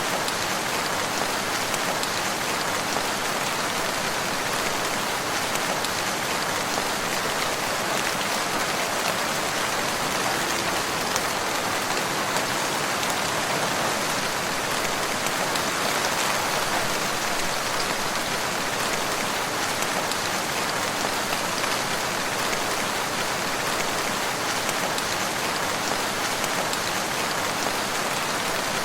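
Steady rain falling and pattering on surfaces, a constant even hiss of drops with no thunder.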